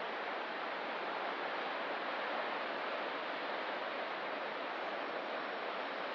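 Steady wash of ocean surf, an even hiss that does not rise or fall with single breaking waves.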